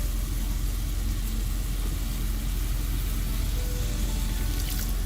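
Onion, tomato and spice masala sizzling in a pan over a steady low hum, with a few light clicks near the end.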